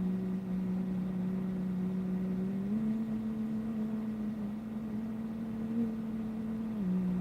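A person humming a low, slow tune in long held notes: one note, a step up about three seconds in, then back down near the end. The humming mimics a tune the hummer says she hears.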